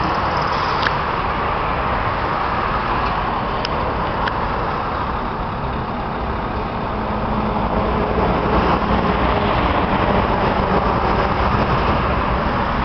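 Scania V8 diesel truck engine running steadily, dipping slightly in level about halfway through, with a few faint clicks early on.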